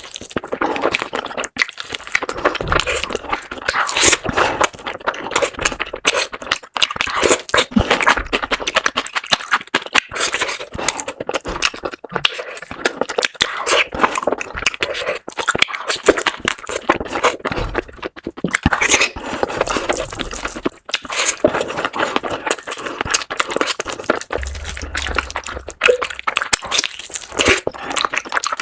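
Close-miked eating: a person chewing and crunching food with mouth clicks and scrapes, one irregular stream of small crisp noises.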